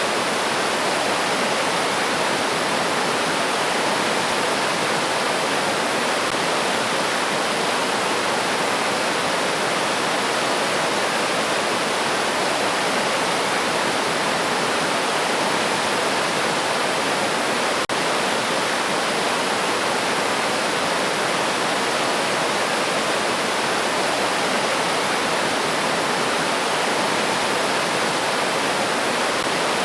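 Steady rushing of a river stream flowing over rocks, an even wash of water noise with no clear birdsong above it. It drops out for an instant a little past halfway.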